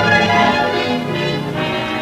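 Orchestral film score music, sustained string and brass chords.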